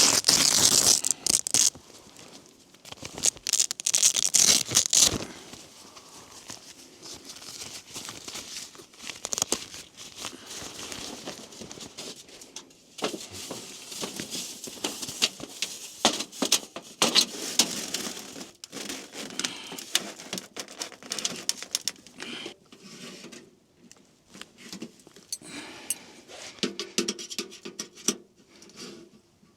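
Irregular rustling, crinkling and scraping of tent fabric and gear being handled while a tent is pitched, with scattered clicks and crunches. The loudest rustling comes at the very start and again about four seconds in.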